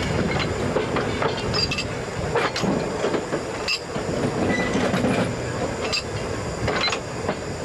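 Works train with a bogie bolster wagon loaded with rails running along the line, heard from on board: a steady rumble with irregular metallic knocks and clanks from the wheels over the rail joints, and a short wheel squeal about four and a half seconds in.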